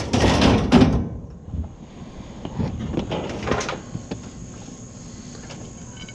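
Scrap being picked up and handled: a loud scraping rattle in the first second, then a few clattering knocks about three seconds in.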